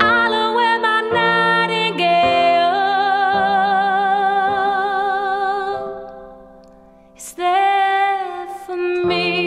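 A woman sings long held notes with a wavering vibrato over sustained keyboard chords. The music fades away about six to seven seconds in, then voice and chords come back in.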